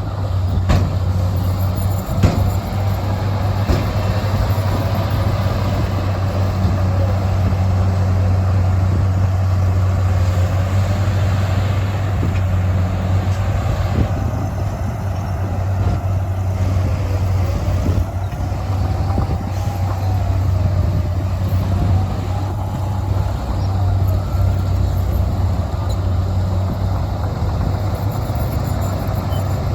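Heavy diesel earthmoving machinery running: a steady low engine drone with a whine that rises and falls every few seconds. There is a single sharp knock about two seconds in.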